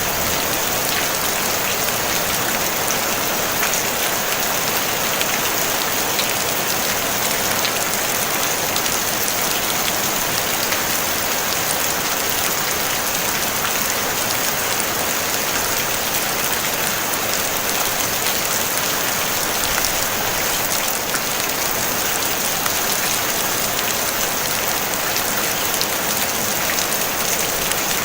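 Steady rain falling on a tin roof: an even hiss of countless drops with fine ticks of single drops through it.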